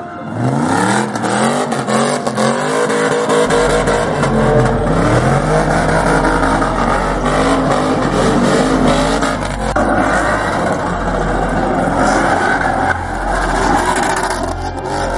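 A car engine revved again and again, its pitch climbing and dropping with each rev. A steady low drone joins underneath a few seconds in.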